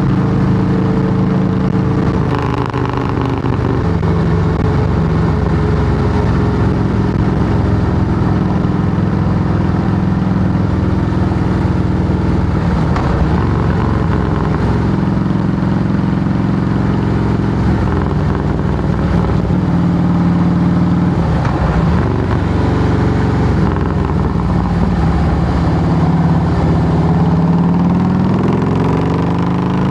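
Harley-Davidson Softail Heritage Classic's V-twin running through Samson fishtail true dual exhaust pipes, the engine speed rising and falling several times.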